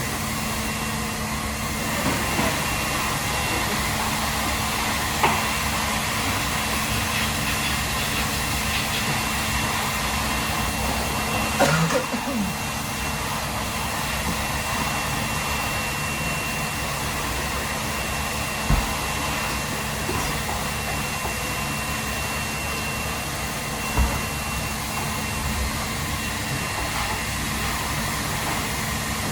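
Steady fan-like machine hum with a faint constant tone, typical of kitchen ventilation running, broken by a few short sharp knocks, the loudest about twelve seconds in.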